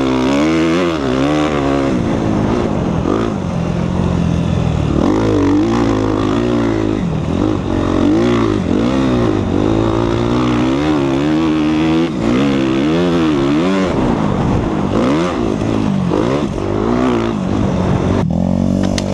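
Single-cylinder four-stroke engine of a 2014 Suzuki RM-Z250 motocross bike being ridden hard, its revs climbing and falling over and over with the throttle and gear changes. The engine note drops briefly near the end.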